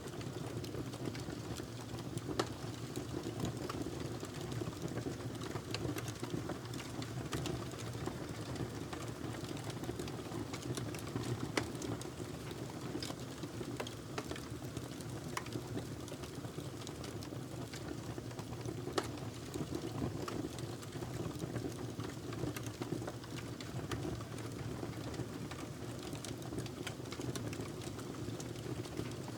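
Fire burning in a fireplace, crackling: a steady low rush of flames with scattered sharp pops and snaps.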